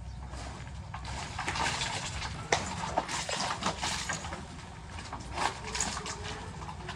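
A low, steady engine rumble from heavy construction machinery, with irregular metallic clicks and knocks throughout.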